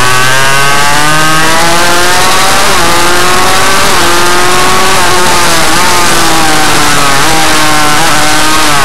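Suzuki RM85 two-stroke motorcycle engine running under changing throttle, its pitch climbing and then dropping back several times, over a loud steady hiss.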